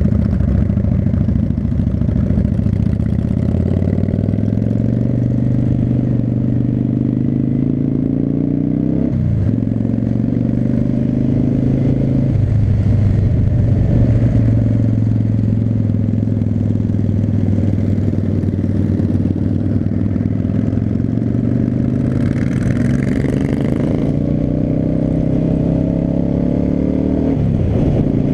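V-twin cruiser motorcycle engine pulling through the gears. Its pitch climbs and drops sharply at upshifts about nine and twelve seconds in, holds a steady cruise, then climbs again to another shift near the end.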